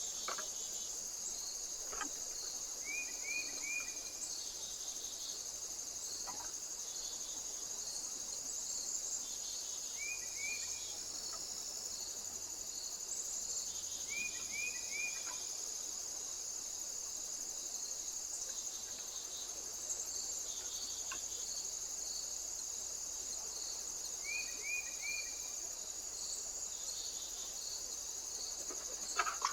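Insects, crickets among them, chirring steadily in a high-pitched unbroken drone with a fast pulsing beneath it. Short groups of three quick chirps come every few seconds, and a few faint clicks.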